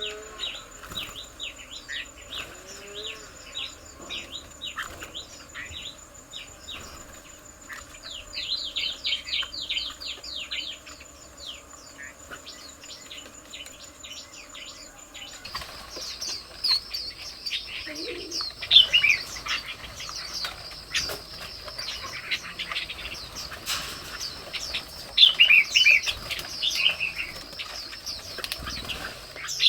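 Several birds chirping and calling, plausibly red-whiskered bulbuls, in quick runs of short chirps with louder bursts now and then. A steady high whine sits beneath the chirps and shifts in pitch about halfway through.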